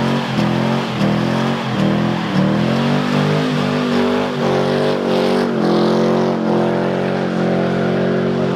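Car engine revved in quick blips for the first few seconds, then held at high revs, as the driver shows off for the camera.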